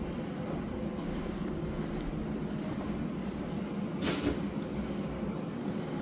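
Steady low rumble, with one brief rustle about four seconds in.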